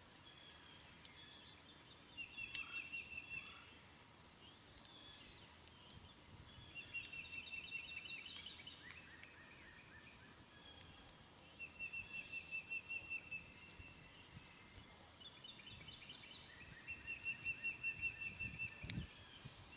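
Songbirds singing a rapid trill of even notes, repeated four times, over the faint crackle of a smoldering wood campfire, with one sharper pop near the end.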